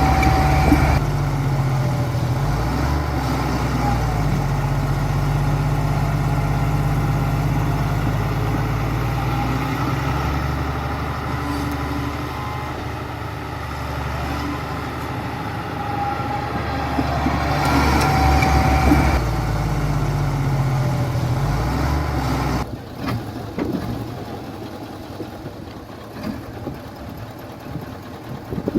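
Heavy diesel engine of a construction machine running, its pitch and loudness shifting with load and swelling about two-thirds of the way through. It drops away suddenly near the end, leaving quieter rumbling noise with a few knocks.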